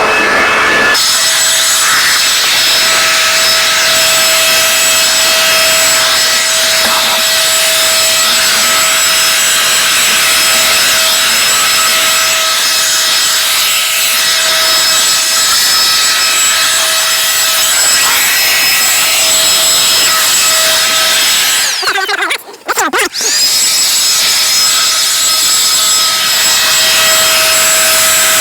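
Electric blower drying a boat, running steadily with a high motor whine over a rush of air. About 22 seconds in it cuts out for a moment, then spins back up, its whine rising to speed.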